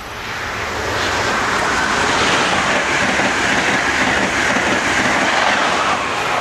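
Amtrak Acela high-speed electric trainset passing through at speed: a rushing rumble of wheels and air that swells over the first second, holds loud and eases a little near the end.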